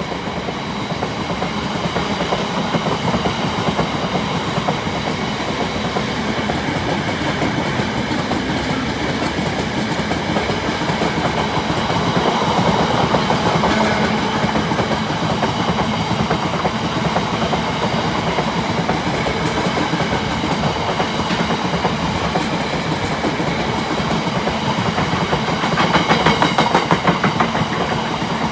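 A train running past on steel rails, its wheels clattering continuously over the track, louder about halfway through and again near the end.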